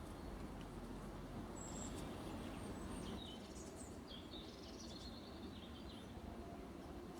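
Wild birds singing in a spring forest: scattered short high chirps and whistles, with a run of quick notes in the middle, over a steady low background rumble.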